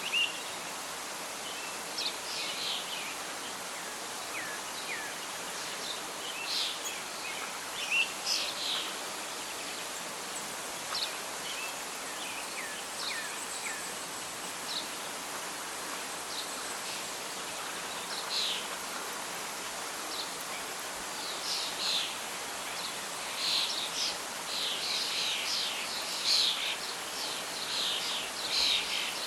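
Nature ambience: an even hiss of wind and rustling leaves under songbirds chirping. The birdsong is sparse at first and grows busier near the end.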